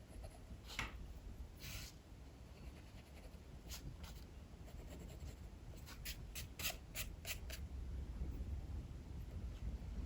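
Drawing strokes scratching on paper while sketching: a few separate strokes, then a quick run of about six short strokes near the end, over a steady low rumble of strong wind.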